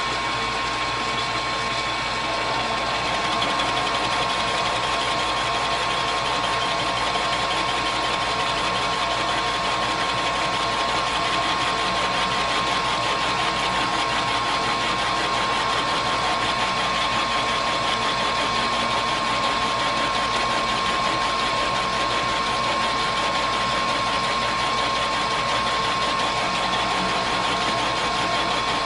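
Metal lathe running steadily with a constant whine, taking a light facing cut across the face of a workpiece; it gets slightly louder a few seconds in.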